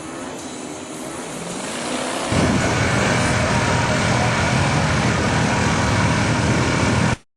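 Off-road vehicle engine running hard, its pitch rising, then suddenly much louder and harsher about two seconds in; the sound cuts off abruptly near the end.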